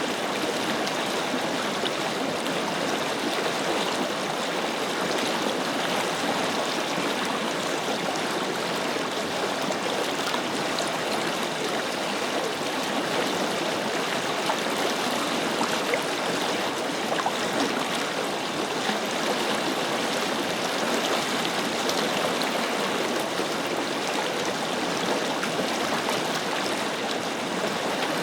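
Forest river flowing: a steady, even rush of water over stones that does not change.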